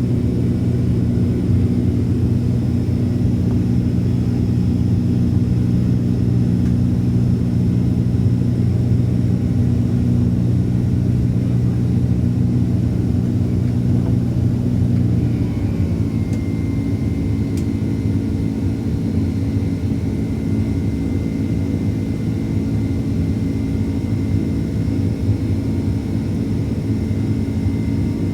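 Jet airliner's engines running steadily during takeoff and climb, a low rumble with a steady hum. About halfway through, the hum changes pitch and a thin high whine sets in.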